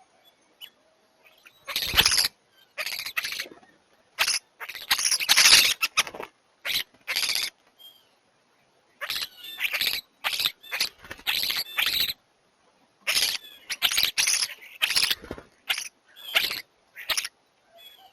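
European starlings squabbling at a feeder: irregular bouts of wing flapping and scuffling mixed with their calls. The bouts start about two seconds in, pause briefly around the middle, then carry on.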